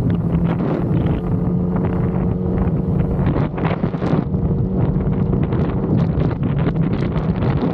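Yamaha XSR900's three-cylinder engine running at a steady, even pitch while the bike rides along, with heavy wind buffeting the microphone.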